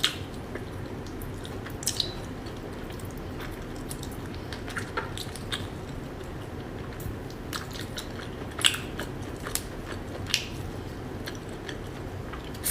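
Close-up eating of steamed hermit crab: scattered short, wet clicks and smacks of biting and chewing over a steady low hiss.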